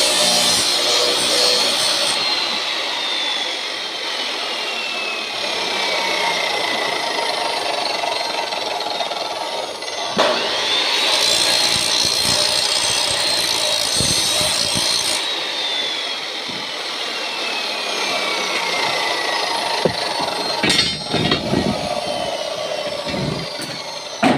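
Angle grinder with a cut-off disc cutting through 16 mm stock, a harsh grinding over a high motor whine. The whine falls steadily in pitch as the disc bogs down in the cut, spins back up about ten seconds in, then falls again under load. A few knocks near the end.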